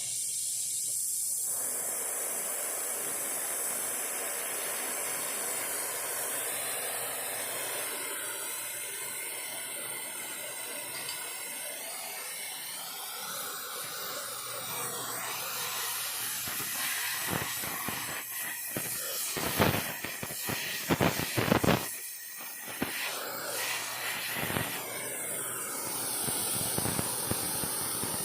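Oxy-acetylene torch flame hissing steadily, with a run of sharp crackles and pops in the second half.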